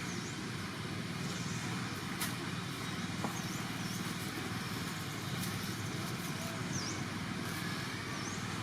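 Outdoor background: a steady low rumble like road traffic, with short high chirps repeating every second or two and a couple of faint clicks.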